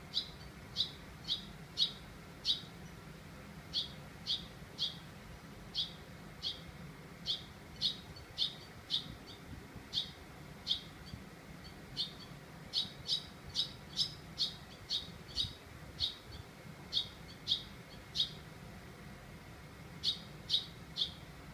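A bird chirping over and over: short, high, sharp calls at about two a second, in runs separated by brief pauses.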